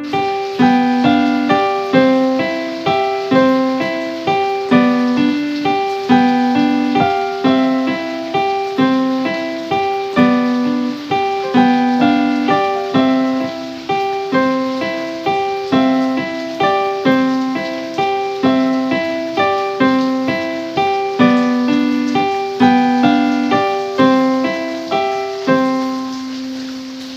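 Solo piano music: a steady, repeating figure of notes, each ringing and decaying, fading out near the end.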